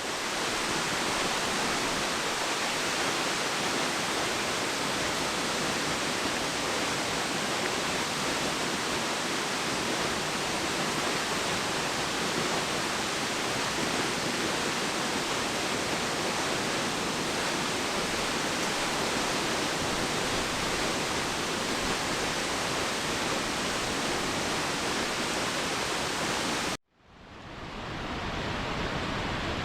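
Waterfall rushing: a steady, even wash of falling water. Near the end it cuts out abruptly and a slightly duller rush of water fades back in.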